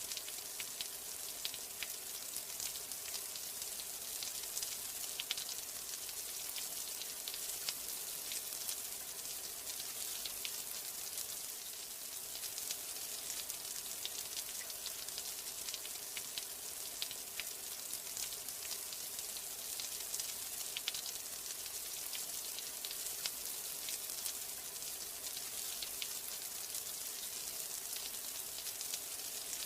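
Steady rain: a continuous hiss with many small, irregular droplet ticks.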